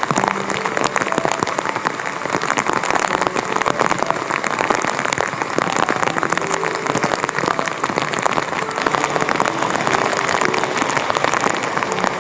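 Heavy typhoon rain falling steadily, a dense, even patter of drops.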